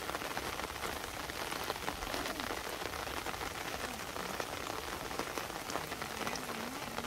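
Steady rain falling on a waterlogged rice paddy, an even hiss dotted with many small drop ticks.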